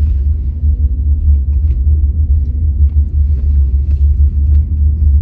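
Steady low rumble inside a car cabin as the car is driven through a parking lot. It is the engine and tyre noise, with a faint hum running through it.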